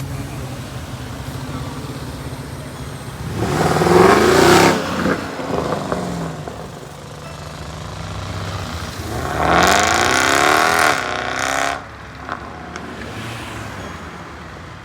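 Cars leaving a car show, engines revving as they accelerate away. Two loud passes, about four and ten seconds in, each with a rising engine note, over a steady low engine rumble.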